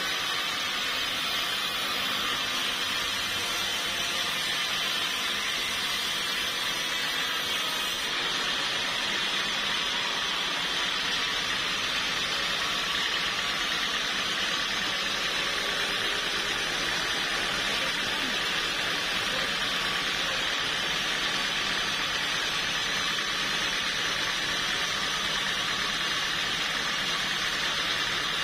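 Sawmill saw running steadily, a constant even noise that holds the same level throughout.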